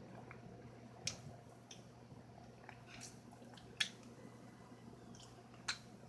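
A small child's wet mouth smacks and clicks while eating cake off a spoon: a few short, sharp smacks spaced a second or two apart, over a faint steady hum.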